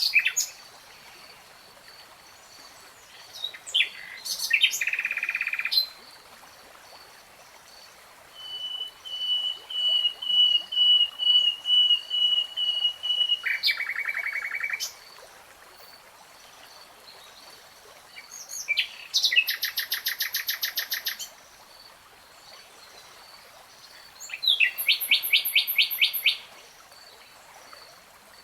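A songbird singing in separate phrases a few seconds apart: short rapid trills, and a long series of repeated clear notes that ends in a buzzy trill. A faint steady high tone runs behind the song.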